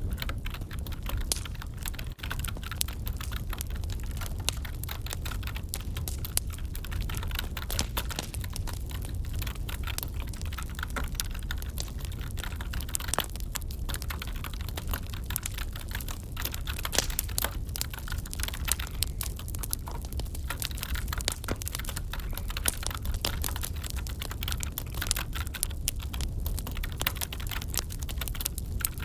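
Continuous, irregular typing on a computer keyboard, mixed with the crackle of a wood fire burning in a fireplace.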